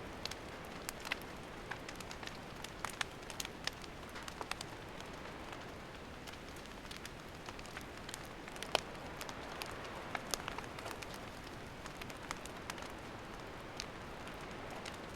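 Wood campfire burning: irregular sharp crackles and pops, some in quick clusters, over a steady soft hiss.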